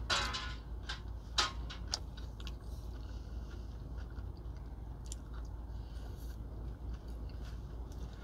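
Close-up chewing and mouth sounds of someone eating a spoonful of buckwheat, with a few sharp smacks or clicks in the first two seconds. A steady low hum runs underneath.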